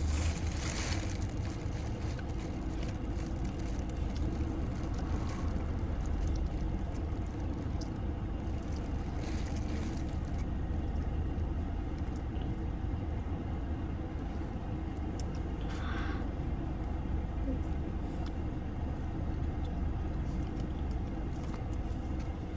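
Steady low rumble of a car idling, with a few short noises about a second in, near ten seconds and around sixteen seconds.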